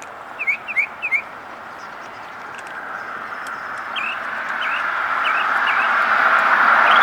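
A small bird calling with short, repeated chirps: three quick ones about half a second in and a few fainter ones later, over a rushing noise that grows steadily louder and is the loudest thing by the end.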